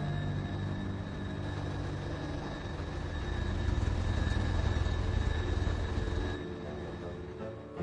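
Steady low vehicle rumble that swells about halfway through and drops away near the end.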